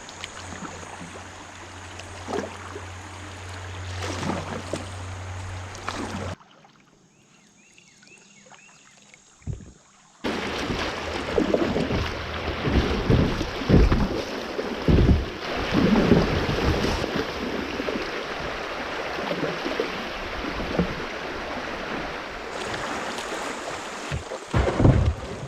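Kayak on a river: water noise from the paddling and the current, with wind buffeting the microphone. It drops to a quieter stretch partway through, then comes back louder with irregular low thumps.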